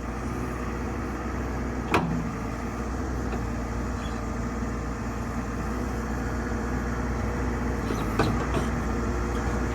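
A 2011 JCB 3CX backhoe loader's four-cylinder diesel engine running steadily at low speed. A sharp click comes about two seconds in and another near the end.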